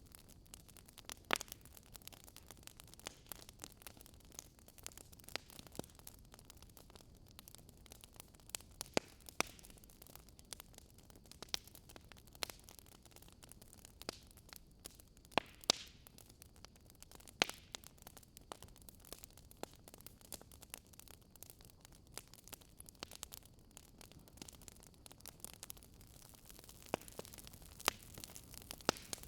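Fireplace crackling: irregular sharp pops and snaps, one every second or two, over a faint steady hiss.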